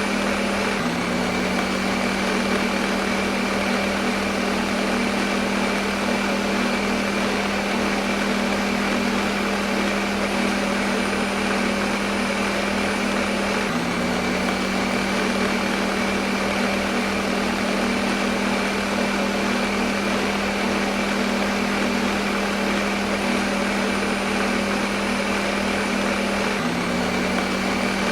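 Electric kitchen blender running steadily, used as white noise: a constant motor hum under an even whirring hiss. The pitch dips slightly for a moment about every 13 seconds.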